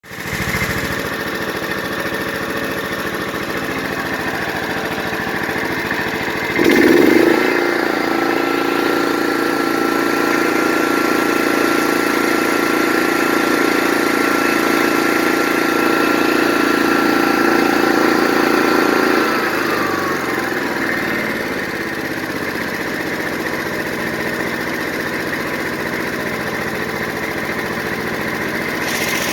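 Honda Harmony 1011 lawn tractor's 11 HP engine running steadily. About six seconds in it surges and is throttled up to a higher steady speed with a high whine. Just before twenty seconds the whine falls away and the engine drops back to its lower speed.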